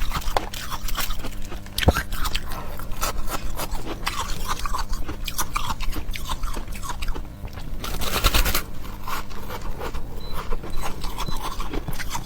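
Ice being crunched and chewed close to the microphone: a dense, crackling run of crunches. There is one sharp crack about two seconds in and a thicker burst of crunching about eight seconds in.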